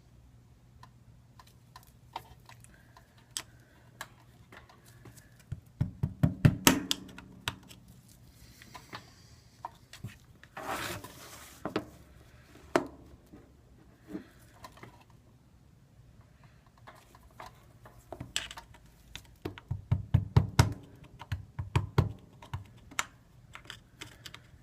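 Small hand tool clicking, tapping and scraping against the iPad 2's housing while the edge that kept the screen from seating is reworked: scattered clicks, two clusters of rapid taps, and a short scrape.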